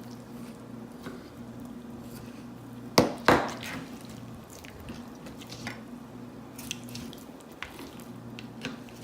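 Knife cutting a breast off a raw whole chicken: soft, wet squishing of the meat, with two sharp knocks close together about three seconds in and a few lighter clicks later, over a steady low hum.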